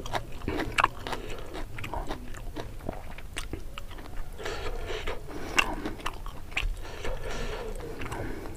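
Close-miked eating: chewing with wet mouth clicks and smacks, irregular and continuous, as a person eats spicy tilapia and rice by hand.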